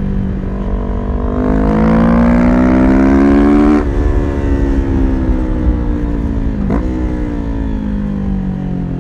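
Kawasaki Ninja 400's parallel-twin engine through a full aftermarket exhaust system. It pulls hard with the revs rising for about three seconds. The throttle then closes sharply a little under four seconds in, and the revs fall away steadily, with a brief blip near seven seconds in.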